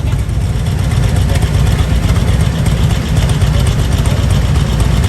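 Motorcycle engines running at idle, a steady low rumble.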